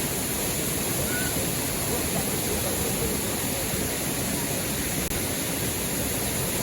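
Steady rush of water from a river waterfall, with one brief dropout about five seconds in.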